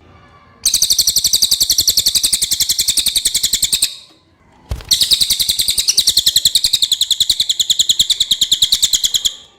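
Cililin songbird singing two long bouts of very rapid, evenly repeated high notes, about a dozen a second, with a short pause and a brief knock between them.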